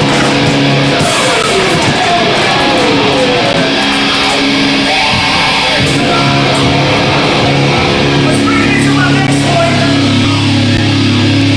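Hardcore punk band playing live: loud distorted electric guitars, with held chords and sliding notes.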